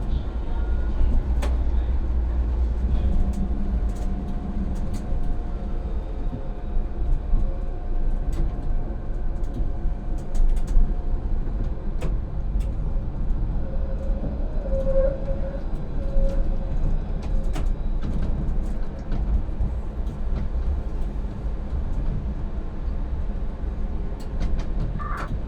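Electric tram running along the line, heard from the driver's cab: a steady low rumble of wheels on rails and running gear, with scattered sharp clicks and, for a while, a faint steady whine.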